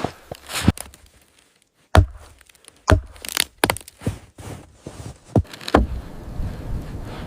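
Wood being handled: a string of separate wooden thunks and knocks, with a second of silence after the first few. About six seconds in, a steady rushing noise takes over.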